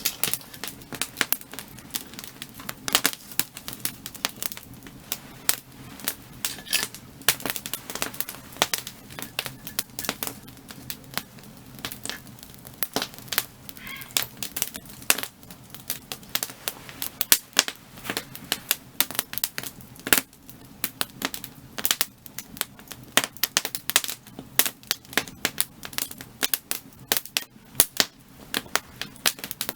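Firewood burning, crackling with irregular sharp pops and snaps, several a second, over a low steady background.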